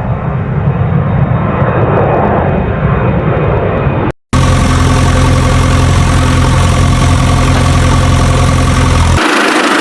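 Heavy diesel engine running, heard in edited clips. First comes a low engine sound, then a brief cut to silence just after four seconds. A steady engine with an even low hum follows, and near the end it switches abruptly to a hissier sound.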